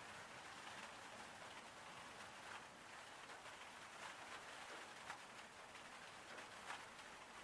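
Faint steady patter of falling rain, with scattered individual drops ticking a little louder.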